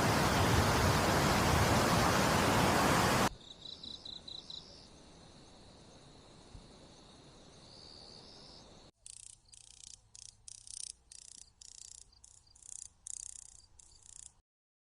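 A loud, even rushing hiss for about three seconds cuts off suddenly. Faint high insect trills follow, then a run of short, raspy, high-pitched insect chirps in irregular groups, like crickets or katydids, which stops abruptly near the end.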